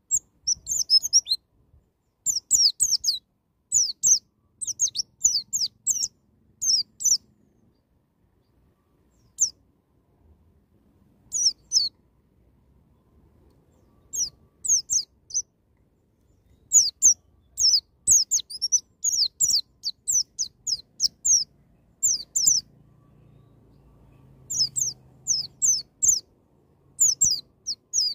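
White-eye (pleci) singing a fast, high-pitched song of quick downward-sliding chirps. The chirps come in rapid runs separated by pauses of a few seconds.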